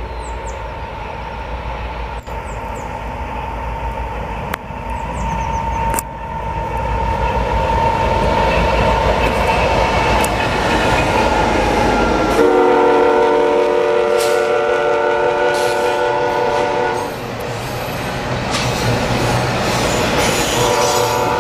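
Approaching freight train: the locomotives' rumble and rail noise grow louder, then the lead diesel locomotive's air horn sounds one long chord about halfway through and starts another blast near the end.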